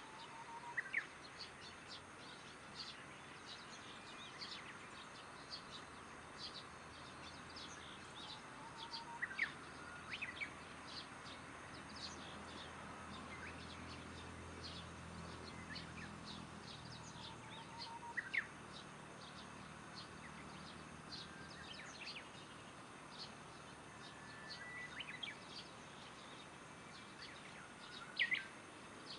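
Small birds giving short, scattered chirps over a faint steady background of evening insects. A faint low drone rises and fades in the middle.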